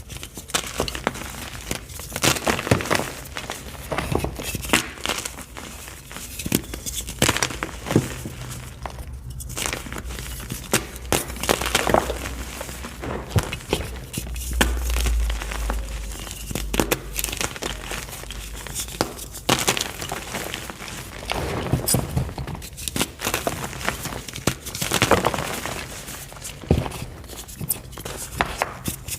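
White block gym chalk being crushed: soft crushing and crumbling in a continuous run of irregular crackles. A low thud about halfway through.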